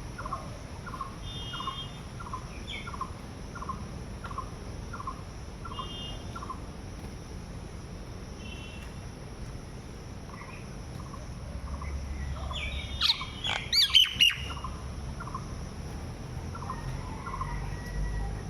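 Birds calling: one bird repeats a short chirp about every two-thirds of a second, with a few higher chirps mixed in. About thirteen seconds in comes a brief, louder burst of sweeping calls.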